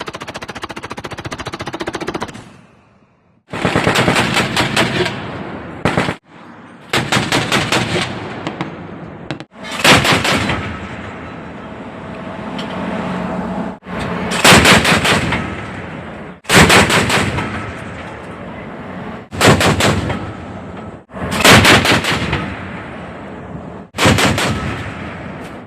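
Machine guns firing a series of short, rapid bursts, each followed by a fading echo, with abrupt breaks between some bursts.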